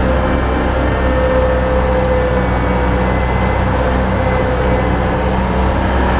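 Steady engine drone, running evenly at a constant pitch with a held hum.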